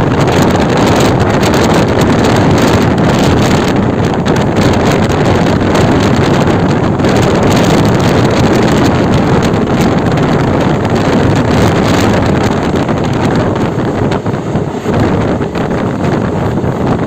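Loud, steady wind blowing across the microphone over the low rumble of a moving passenger train.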